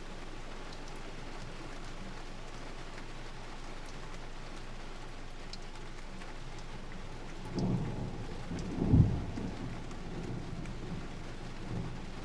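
Heavy rain falling steadily, with a roll of thunder that builds about seven and a half seconds in, cracks loudest a second later and rumbles away.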